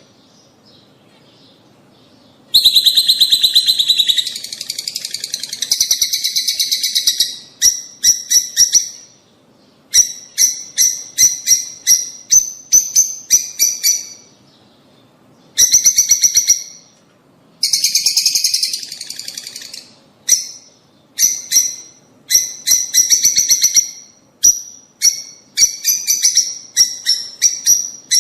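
Lovebirds calling: rapid trains of sharp, high-pitched chirps, broken twice by longer buzzy rattles and by a couple of brief pauses.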